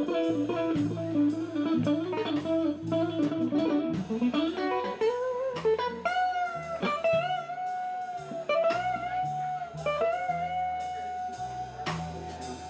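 Blues band playing live: an electric guitar plays a lead line over bass and drums. It starts with a run of quick notes, then from about six seconds in holds a long bent note with vibrato.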